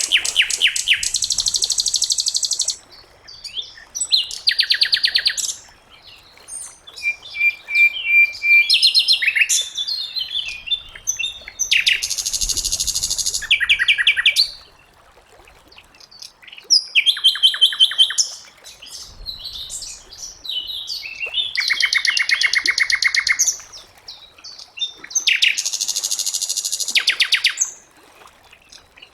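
Sikatan londo songbird singing in repeated bursts of rapid, high trills, each lasting one to three seconds, with short pauses and scattered single notes in between.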